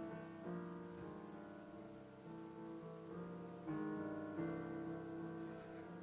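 Piano accompaniment playing a slow instrumental passage of held chords, a new chord struck every second or so, between sung lines of a musical-theatre ballad.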